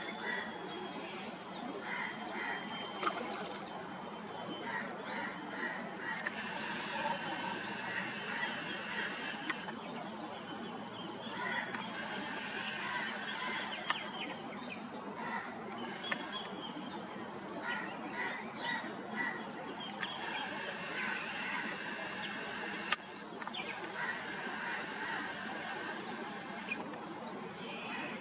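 Outdoor ambience of many birds chirping and whistling over a steady high-pitched drone of insects, with a few sharp clicks.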